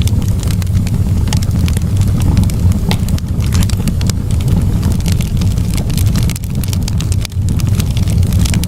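Campfire burning, with frequent irregular crackles and pops from the burning wood over a loud, steady low rumble.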